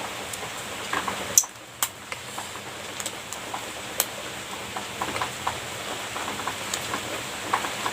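A person eating a strawberry cream pastry: soft chewing and mouth sounds with many small scattered clicks, and a few sharper clicks about one and a half, two and four seconds in.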